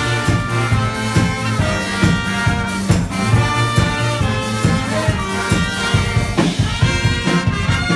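Brass band playing an up-tempo number, horns stacked over a steady low bass line with a regular percussive beat.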